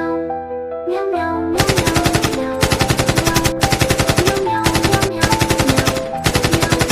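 Machine-gun fire sound effect in several rapid bursts of about ten shots a second, starting about a second and a half in, over soft background music.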